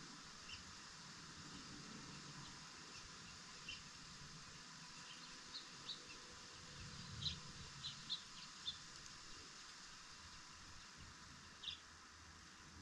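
Birds giving short, scattered chirps over a faint steady hiss, busiest about seven to nine seconds in.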